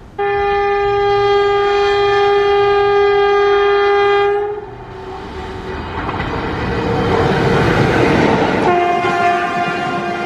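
Indian Railways electric locomotive's horn sounding a long blast of about four seconds, followed by the loud rush of the train passing at speed, and the horn sounding again near the end at a lower pitch.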